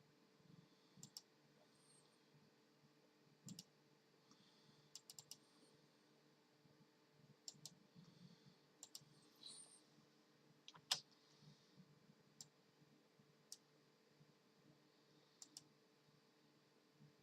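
Faint, irregular clicking of computer keys, single presses and short clusters a few seconds apart, with one sharper click about eleven seconds in, over a faint steady hum.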